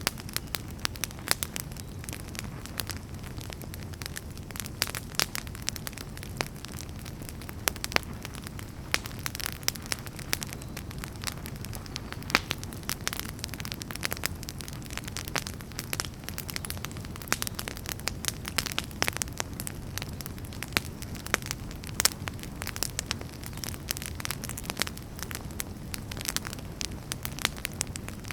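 Wood fire burning in a fireplace: a steady low rumble of flame with frequent sharp crackles and pops, irregular and several a second.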